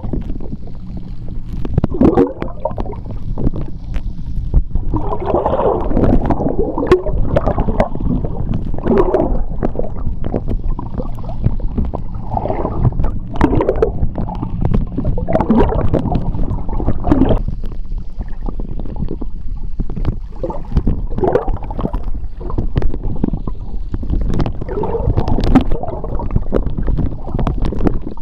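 Moving seawater and bubbles recorded underwater: a steady low rumble with gurgling swells every second or two and scattered sharp clicks.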